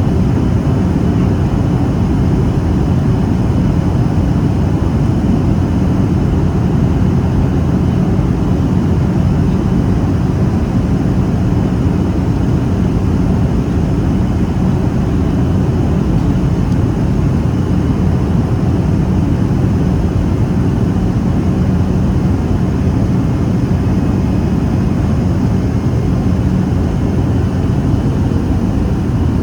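Steady cabin noise inside a Boeing 737-800 in flight: the constant low rush of airflow and CFM56 turbofan engines heard from a seat over the wing, with a faint steady hum underneath.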